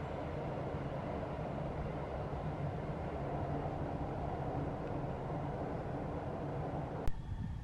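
Passenger train rolling along the rails: a steady rumble of the coaches running on the track. It cuts off suddenly with a click near the end.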